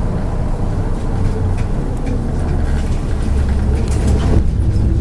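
MAZ 103 bus under way, heard from inside the cabin: a steady low engine and road rumble, with light rattles and a short clatter about four seconds in.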